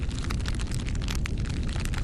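Bonfire burning: wood crackling and popping with many sharp snaps over a steady low rumble of flames.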